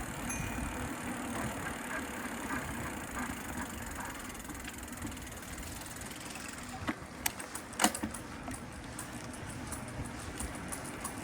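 Steady background hum of city street traffic, with a few sharp clicks about seven to eight seconds in, the loudest near eight seconds. After that, a bicycle's rear freewheel ticks quickly and evenly as the bike coasts.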